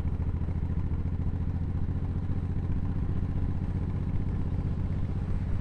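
A 1500 cc cruiser motorcycle's engine running steadily under way, a low, even hum of exhaust pulses that holds its pitch throughout.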